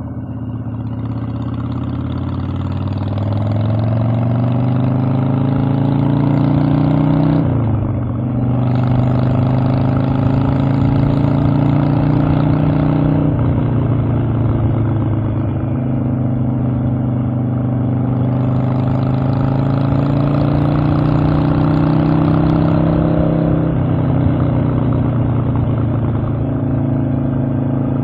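Harley-Davidson Evolution V-twin motorcycle engine pulling under throttle while riding: its pitch climbs, drops sharply at an upshift, and climbs again, three times over, then holds steady at cruise near the end.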